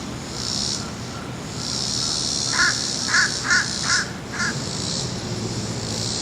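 A crow cawing five times in quick succession about halfway through. Under it are a steady high pulsing insect drone and the low rumble of a distant jet airliner.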